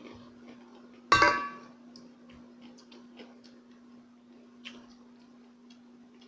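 A single sharp clink of tableware about a second in, ringing briefly, over faint scattered small clicks and a steady low hum.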